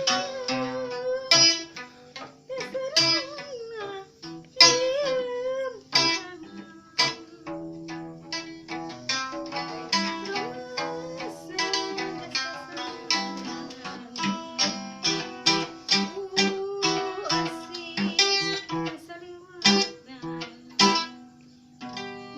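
Kacapi, the Sundanese plucked zither, played as a solo instrument: a busy run of plucked notes that ring and fade, with a few notes bent and wavering in pitch in the first few seconds.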